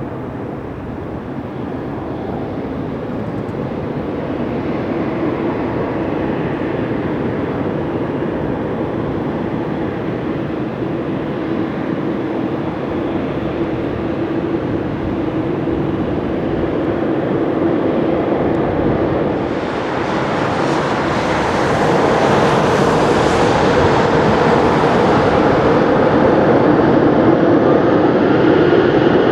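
Jet engines of an Embraer ERJ-190 (GE CF34-10E turbofans) running with a steady hum, slowly growing louder. About two-thirds of the way through, the noise jumps sharply louder and brighter as thrust is raised for the takeoff roll. A rising whine comes in near the end.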